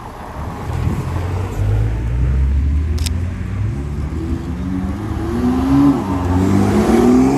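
Car engines pulling away: a low, steady engine note, then a BMW M2's turbocharged inline-six accelerating past, its pitch rising several times and loudest near the end.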